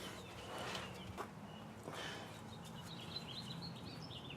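Faint bird chirps in the background, a run of short wavering calls in the second half, with a light click or two.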